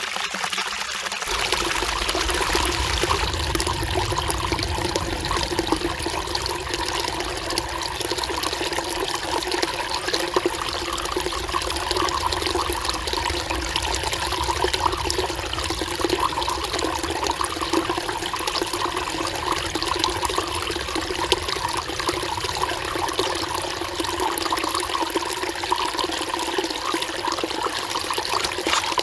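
Mountain stream babbling steadily over rocks, a continuous splashing trickle. A deeper rushing layer joins about a second in.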